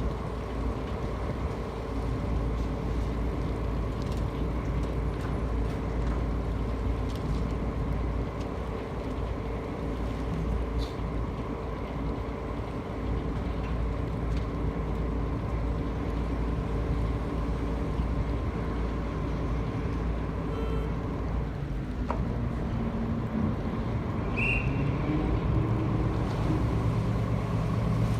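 Small ferry's engine running steadily with a constant hum. About 22 seconds in, a deeper engine note comes in and grows louder.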